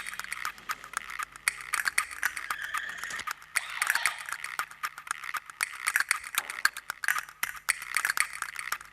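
Wild birds pecking at an apple: many quick, irregular taps and clicks, with faint chirping around them.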